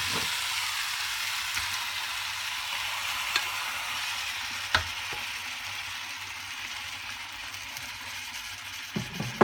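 Chicken masala sizzling in a wok with chopped spinach just piled on top. The steady frying hiss grows gradually quieter, with a couple of light clicks in the middle.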